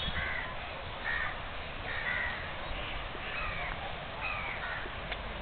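A bird calling over and over: five short calls about a second apart, against a steady background hiss.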